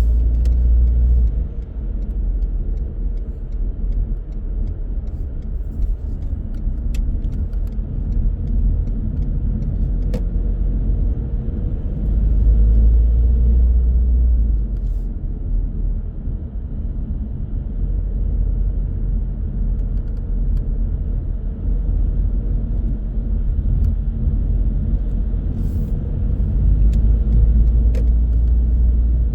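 Car on the move: a steady low rumble of road and engine noise that swells heavier for a couple of seconds at a time, with a few faint ticks.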